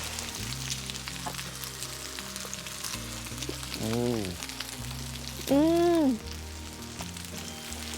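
Pork jowl sizzling and crackling on a hot barbecue hotplate, with soft background music. About four seconds in, and again near six seconds, come two short tones that rise and fall in pitch, the second louder.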